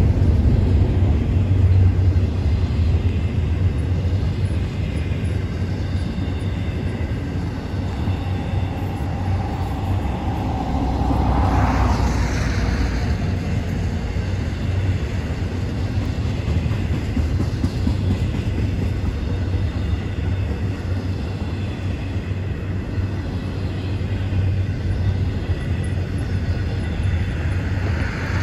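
Double-stack intermodal freight train rolling past: a steady low rumble of wheels on rail, with a brief rising screech about halfway through.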